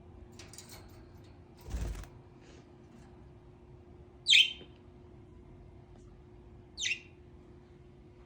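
Pet budgerigar giving two short, sharp chirps about two and a half seconds apart, each sliding down in pitch. A brief muffled rustle comes a couple of seconds before them.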